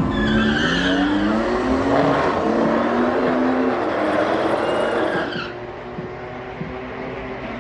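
Car engine accelerating hard, its pitch rising several times, with tyre squeal near the start; the sound drops in level about five and a half seconds in.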